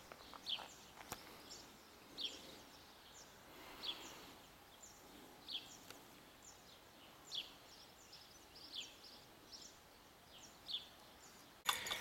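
Small birds chirping faintly: short, high, falling chirps every second or two over a light outdoor hiss. Near the end a louder, fuller outdoor background cuts in abruptly.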